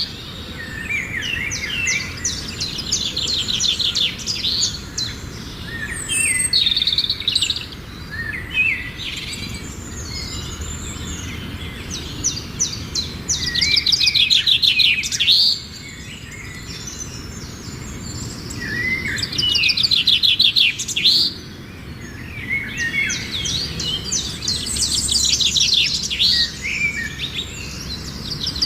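Songbirds singing: phrases of rapid high trills and chirps that recur every few seconds, over a steady low background hiss.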